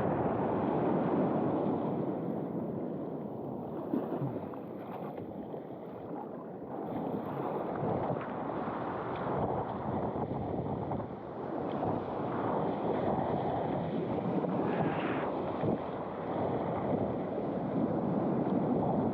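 Rushing noise of breaking surf and whitewater mixed with wind buffeting the microphone, swelling and easing.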